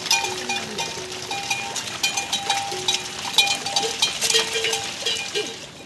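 Several livestock bells clanking and ringing irregularly, at a few different pitches, as a herd of grazing animals moves.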